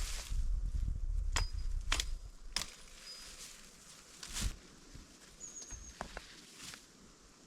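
A low rumble for the first two seconds, then three sharp cracks about half a second apart and another a couple of seconds later, with a faint high chirp in between.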